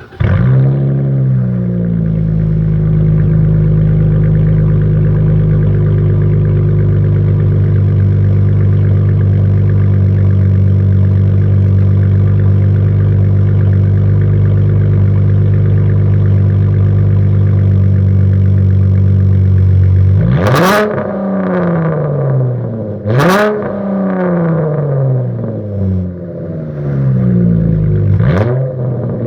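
2015 Dodge Charger's 3.6-litre V6 through a straight-piped exhaust with an X-pipe and no muffler or resonators. It fires up with a brief flare, settles into a steady idle, then takes about four sharp throttle blips near the end.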